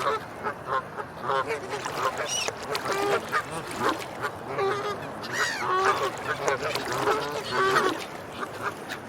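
A flock of waterfowl, swans and ducks, calling at once: many short overlapping honks and quacks, busiest from about five seconds in.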